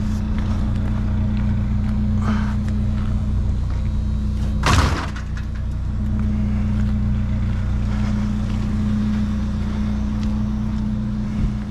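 Vehicle engine running steadily, a low even hum heard from inside the cab, with one brief loud noise about five seconds in.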